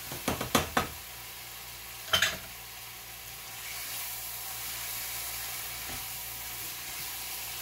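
Chicken frying in a kadhai, sizzling steadily as it is stirred with a spatula, with a few sharp knocks against the pan in the first second and again about two seconds in, while spices are tipped in. The sizzle grows a little louder midway.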